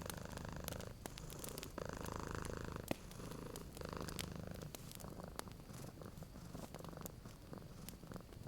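Domestic cat purring steadily, the purr swelling and easing about once a second with its breathing, over a wood fire crackling with scattered small pops.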